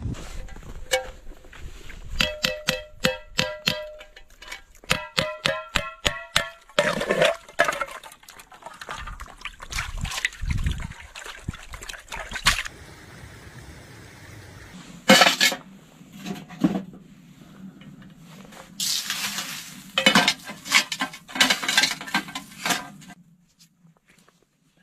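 Metal camp cookware being handled: a quick run of ringing metal clinks, then knocks and several bursts of liquid pouring or sloshing.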